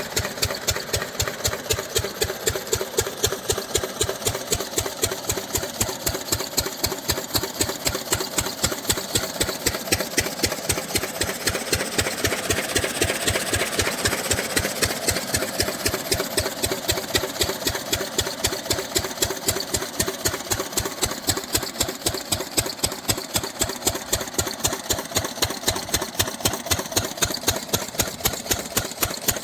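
Diesel engine driving a farm water pump, running steadily with a quick, even beat.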